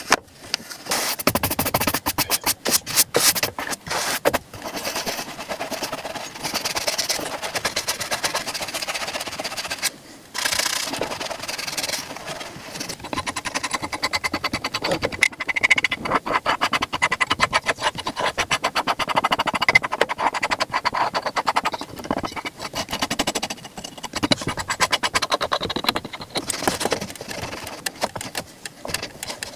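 Shoe-shine work on a leather boot: a brush scrubbing the leather in fast, repeated strokes, with short pauses about four and ten seconds in.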